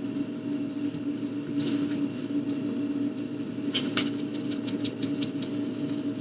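Scrubbing a stain with a cloth or brush: a run of short scratchy rubbing strokes in the second half, over a steady low hum.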